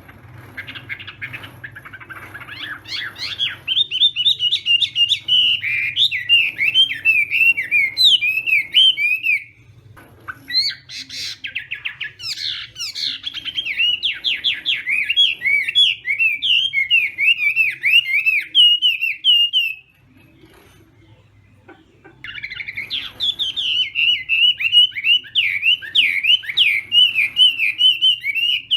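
Chinese hwamei singing in three long bouts of fast, varied whistled phrases, breaking off briefly about ten and twenty seconds in.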